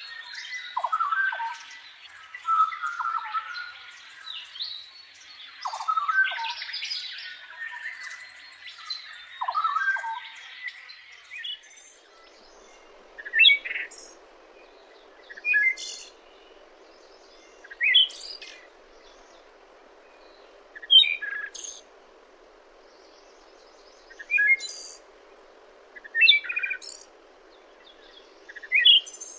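Songbirds chirping and calling. A busy chorus of many overlapping chirps gives way about twelve seconds in to single short chirps every two to three seconds over a faint steady hum.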